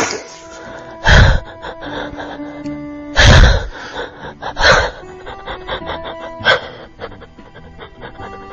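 Soft background music with long held notes, broken by four short, loud gasping breaths close to the microphone.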